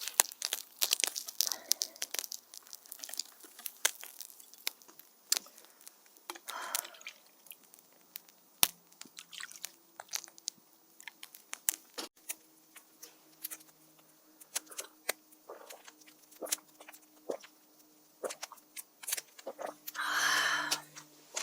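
Irregular small clicks, taps and crinkles of things being handled at close range, with a brief louder rustle near the end.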